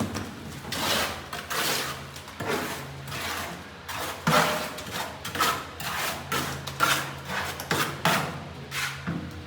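Hand work with a tool: a run of irregular scraping and knocking strokes, about a dozen, over a steady low hum.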